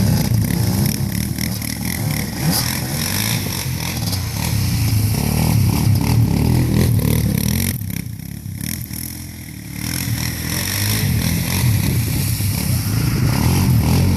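6.2-litre V8 diesel of a K5 Blazer (GMC Jimmy) running through a glasspack muffler under way, with a deep, steady note. About eight seconds in it eases off for a couple of seconds, then picks up again.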